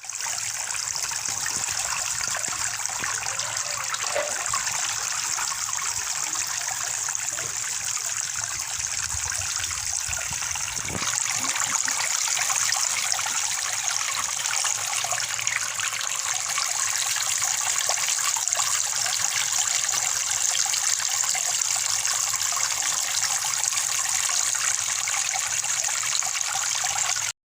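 Water running steadily, trickling and splashing from a small homemade plastic-bottle fountain, a little louder from about eleven seconds in.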